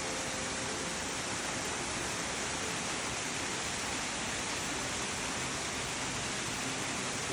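Waterfall rushing steadily, an even noise with no breaks.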